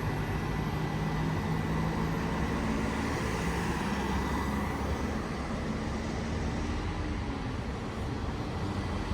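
Bus engine running as the bus moves off and fades over the first few seconds, with steady road traffic noise.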